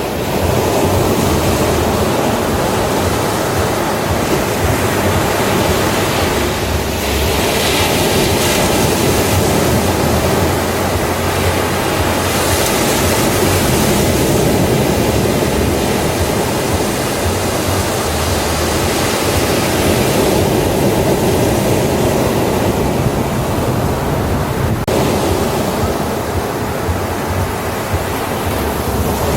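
Ocean waves breaking on a beach: a steady wash of surf that swells a little brighter now and then.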